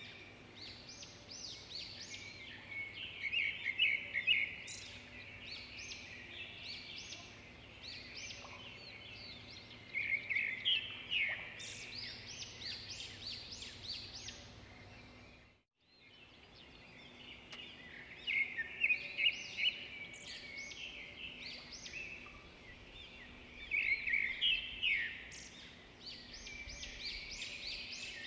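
Many small birds chirping and twittering, with louder bursts of rapid chirps every few seconds over a faint steady hum. The sound drops out briefly about halfway through.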